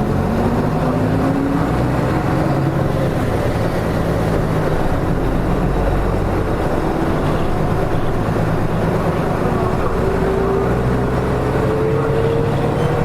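Nissan Diesel RM city bus (KK-RM252GSN) heard from inside the cabin while under way: its diesel engine runs steadily, with a whine that rises in pitch over the first two seconds and again over the last few seconds as the bus gathers speed.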